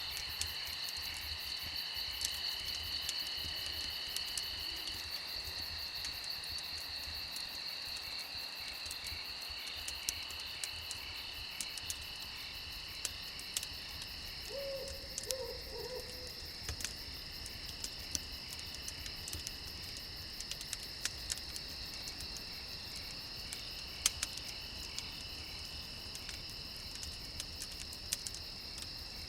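Crickets chirping steadily at two overlapping pitches, with scattered sharp crackles of a wood fire and an owl's short hooting call about halfway through.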